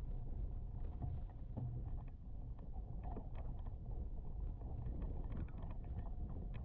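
Strong wind buffeting the camera microphone: a steady low rumble with scattered small knocks.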